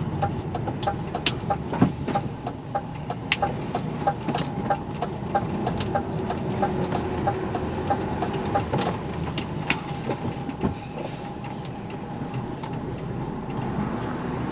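Inside an HGV truck cab on the move: the diesel engine and road noise run steadily, with scattered rattles and clicks from the cab. A fast, even ticking of about three ticks a second, typical of the turn indicator, stops about nine seconds in.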